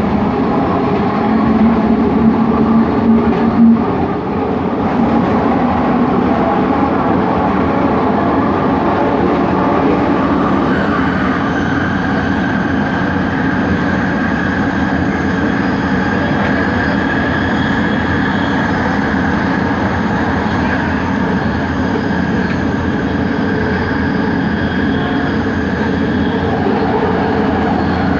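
Bombardier Innovia ART 200 metro train running, heard from inside the carriage: a steady rumble of the running gear. About ten seconds in, a steady high whine from its linear induction motors starts and holds.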